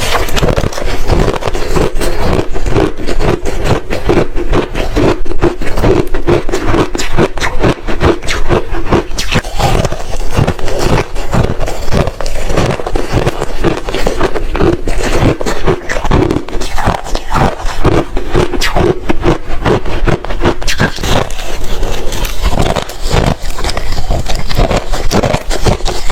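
Hard ice being crunched and chewed close to the microphone: a dense, unbroken run of loud crunches and cracks.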